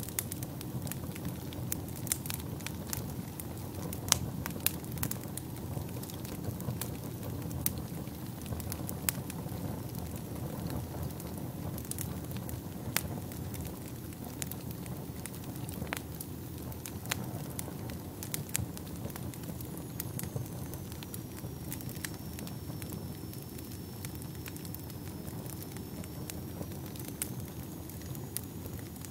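Wood fire burning in a fireplace: a steady low rumble of flames under constant crackling, with sharper pops now and then. A faint thin high whistle runs through the second half.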